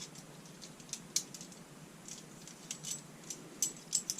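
Saw chain links clicking and rattling lightly as the loose chain is handled and laid onto the chainsaw bar: a dozen or so irregular small metallic clicks.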